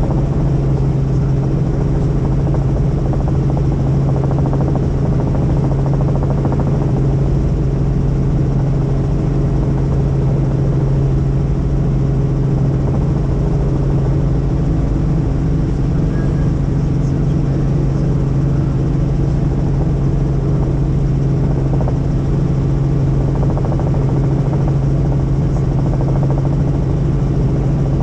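Helicopter in steady flight: a constant drone of rotor and engine built around one strong low hum, holding level without any change in pitch or loudness.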